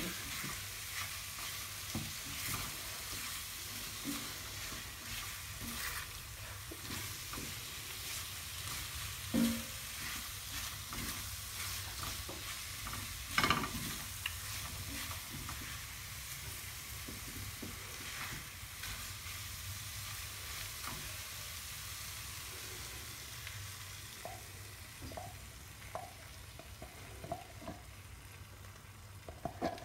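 Chicken pieces with tomato paste and spices sizzling in a hot enamelled cast-iron pan while a spatula stirs and scrapes them, with louder scrapes about nine and thirteen seconds in. Near the end the sizzle quietens as cream goes into the pan.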